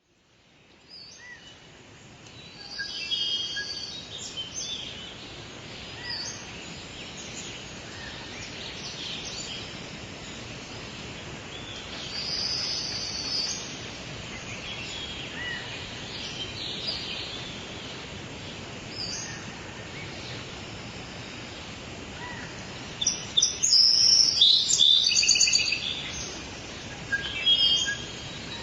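Birds chirping and singing over a steady background hiss, fading in at the start. A louder flurry of calls comes near the end.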